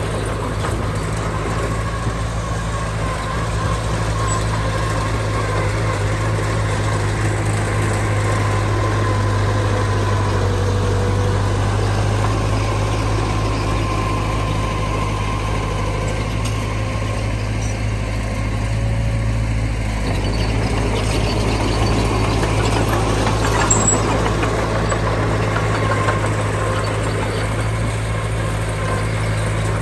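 Heavy diesel engine of earthmoving machinery running steadily at a constant speed, with a low, even hum and a brief metallic tick about three-quarters of the way through.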